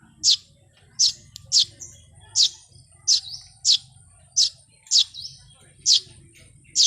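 Birds chirping: a sharp, falling chirp repeated about every two-thirds of a second, around ten times, with a few fainter calls between.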